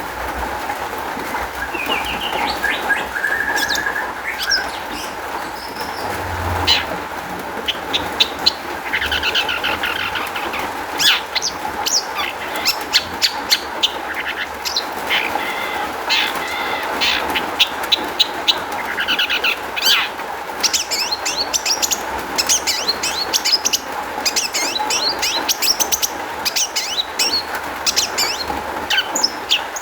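Long-tailed shrike singing a busy, varied song of rapid sharp chirps, short trills and chattering notes, with calls of other birds mimicked into it, over a steady background hiss.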